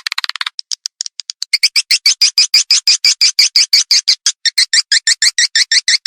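Swiftlet lure call: a fast, even series of sharp chirps, about seven a second, with a brief buzzy trill near the start.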